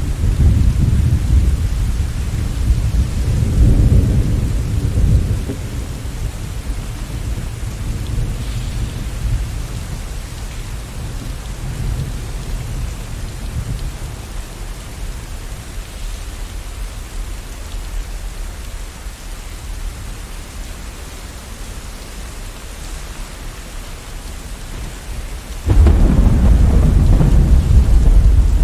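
Steady rain with rolling thunder: a deep rumble fades over the first few seconds, the rain carries on alone, then a sudden loud thunderclap breaks in near the end and keeps rumbling.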